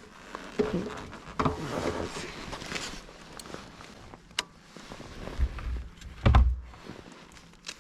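Scattered knocks, scuffs and rustles of someone moving about, with one heavy thump about six seconds in.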